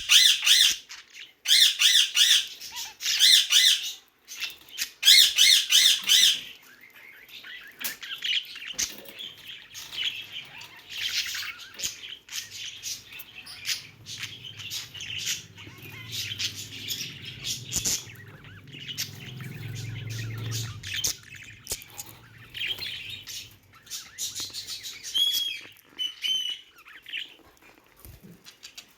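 Budgerigars chirping and chattering: loud, rapid chirp calls for about the first six seconds, then softer, continuous warbling chatter, with a few clear whistled notes near the end.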